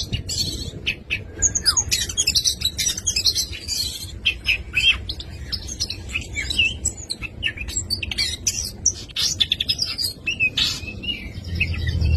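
Oriental magpie-robin singing a fast, unbroken, varied song of chirps, whistles, trills and gliding notes, the 'full isian' song of a kacer loaded with imitated calls of other birds.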